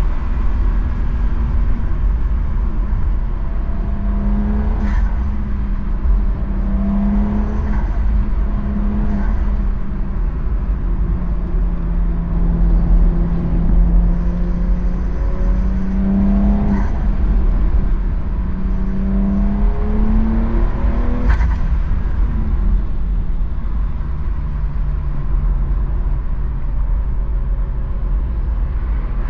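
Porsche 992.2 Carrera Cabriolet's twin-turbo flat-six under way, the engine note climbing in pitch and then dropping at gear changes about four times, with steadier cruising between them.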